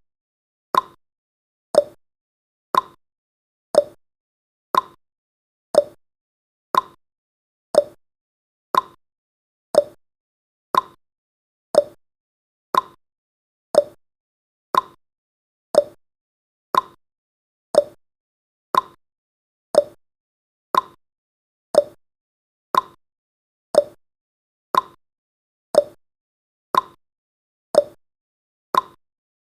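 Clock tick sound effect of a countdown timer, one short tick every second with silence between, the ticks alternating slightly in pitch like a tick-tock.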